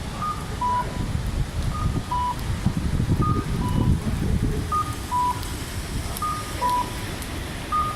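Strong typhoon wind rumbling and gusting on the microphone. Over it an electronic two-note beep, a higher note then a lower one, repeats about every one and a half seconds.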